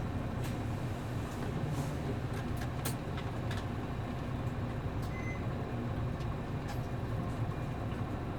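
Running noise inside a city bus under way: its MD92TJ diesel engine drones steadily over road noise. Scattered light rattles and clicks come from the cabin.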